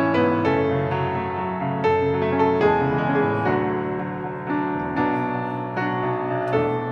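Piano playing a slow instrumental interlude between sung verses of a hymn: single notes and chords struck, each ringing and fading.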